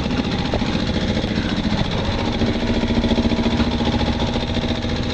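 Sailboat's inboard engine running steadily under way, with an even, rapid pulsing that does not change.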